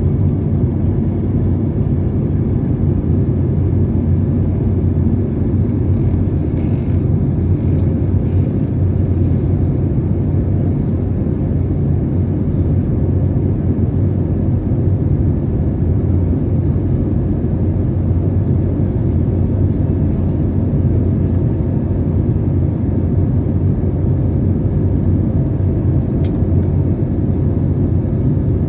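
Steady low roar of an airliner cabin in flight: engine and airflow noise, unchanging, with a few faint ticks.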